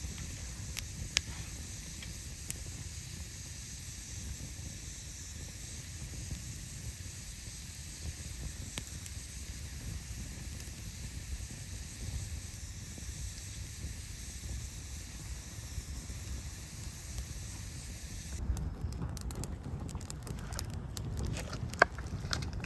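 Wood campfire burning with a steady hiss and occasional sharp pops. About eighteen seconds in the hiss falls away and the crackling comes thicker over a low rumble.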